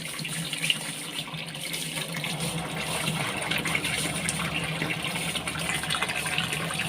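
Washing machine under test after its clogged drain was cleared: water rushing out steadily through the drain, over a steady low hum.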